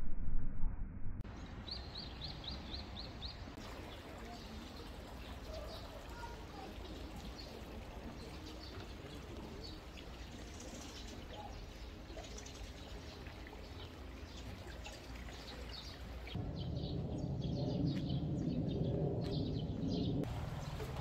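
Small birds chirping repeatedly over a steady outdoor background hiss. The background grows louder and deeper for a few seconds near the end.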